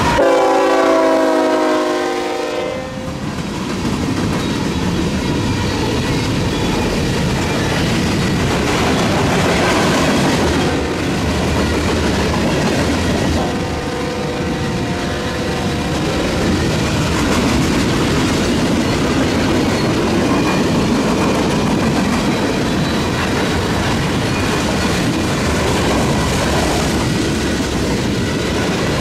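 Canadian National freight locomotive's air horn blowing loudly for about two and a half seconds as it passes, then the steady rolling noise of the freight cars going by on the rails. A second, shorter horn blast comes about 13 seconds in.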